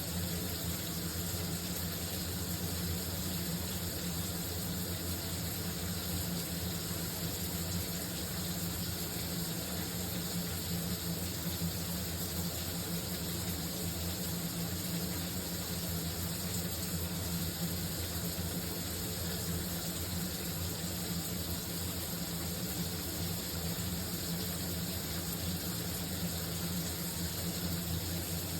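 Shower running: a steady, unbroken spray of water.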